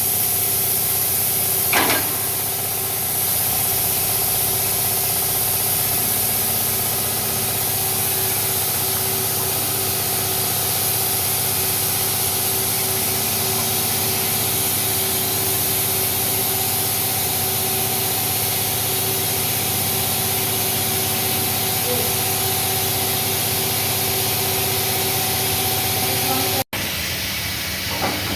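Steady hissing over an engine running at a steady speed, with a brief sharp sound about two seconds in; the sound cuts out abruptly near the end.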